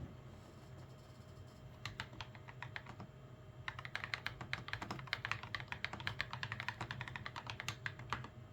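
Typing on a custom mechanical keyboard with Gateron Milky Yellow Pro switches: a few separate keystrokes about two seconds in, then a fast run of typing from a little before the halfway point until near the end.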